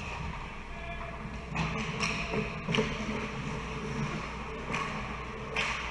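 Ice hockey game noise in a rink: a few sharp knocks of stick and puck over a steady background hubbub.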